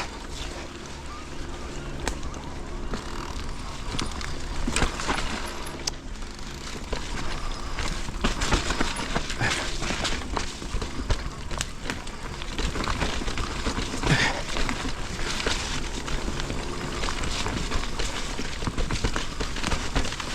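Mountain bike riding down a muddy woodland trail: tyres rolling over dirt and twigs, with a steady low rumble and irregular clicks and knocks from the bike rattling over bumps.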